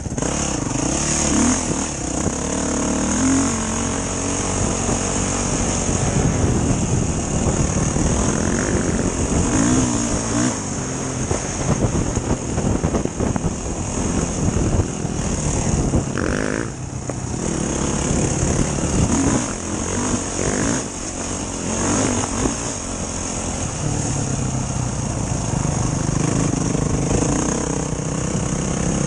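Enduro dirt bike engine running while being ridden, its pitch rising and falling with the throttle under steady rushing noise.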